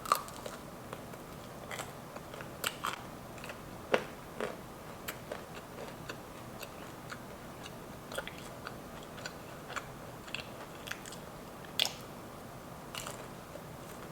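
Close-miked biting and chewing of a lemon pepper dry-rub boneless chicken wing: scattered soft mouth clicks and smacks, with a few sharper ones at the start, about four seconds in and near the end.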